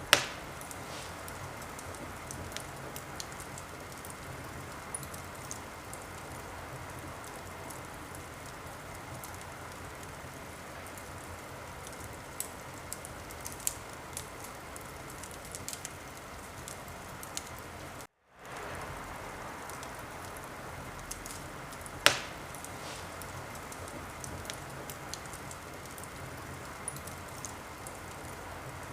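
Fire in a fireplace crackling, a steady hiss with many small pops and two louder sharp snaps, one right at the start and one about 22 seconds in. The sound drops out for a moment about 18 seconds in and fades back up.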